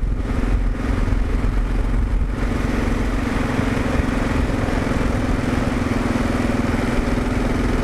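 2022 Kawasaki KLR 650's single-cylinder engine running at a steady speed while riding, with wind and road noise that grows stronger about two seconds in.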